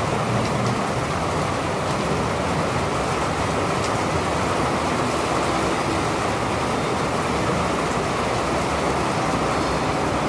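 Steady rain pouring, an even, dense hiss that holds at the same level throughout.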